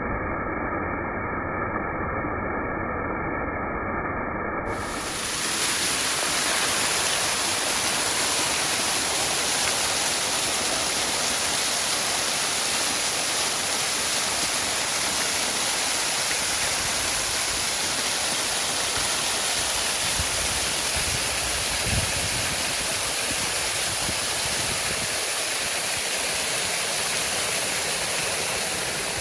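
Waterfall rushing in a steady, even roar of falling water. For the first few seconds the sound is muffled, then about five seconds in it cuts to a full, bright rush.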